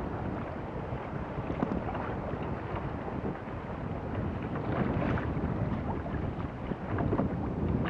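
Wind buffeting an action camera's microphone over choppy lake water lapping and splashing against a kayak, a steady rushing noise with a few brief splashes.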